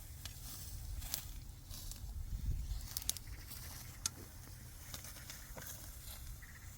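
Scattered sharp crackles and rustles, a few seconds apart, over a faint hiss and a low rumble.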